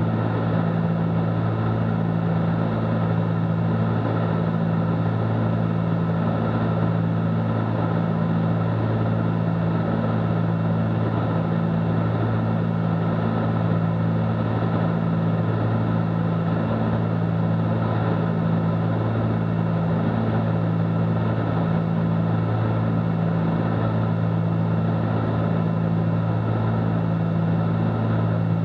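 Cabin drone of a Cessna 310Q twin in flight, its two six-cylinder Continental engines and propellers running steadily. A deep, even hum with a slow regular throb.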